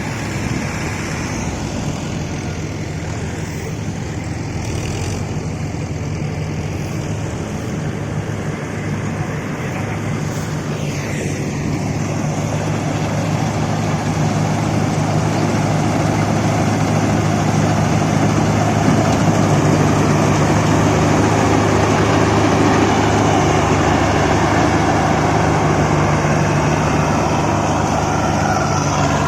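Mahindra 575 DI diesel tractor engine and multi-crop harvester machinery running steadily together, growing gradually louder past the middle.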